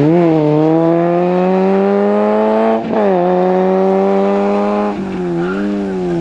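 A racing Peugeot 106 hatchback's engine accelerating hard: its pitch climbs steadily through a gear, drops sharply at an upshift about three seconds in, and climbs again. Near the end it falls and wavers as the throttle comes off.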